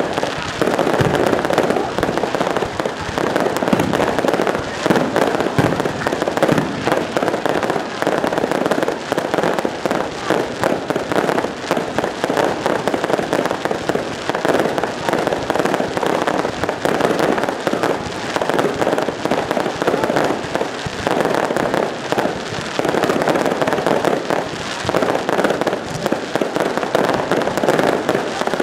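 Fireworks going off without pause: a dense, continuous crackle of many small bangs.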